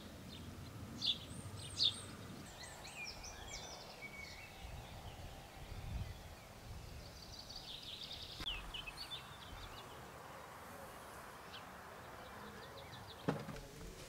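Rural outdoor ambience with birds chirping and singing in short phrases over a faint low background noise; a single sharp thump near the end.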